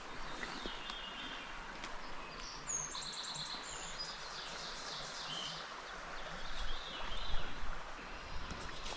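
Small songbirds chirping and singing in short high phrases, most busily about a third of the way in and again near the end, over a steady background hiss. A few low bumps come a little past two-thirds of the way through.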